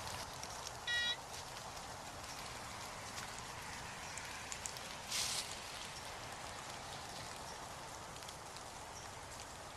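Steady rain falling, with a short electronic beep from the metal detector about a second in and a brief rustling noise around five seconds in.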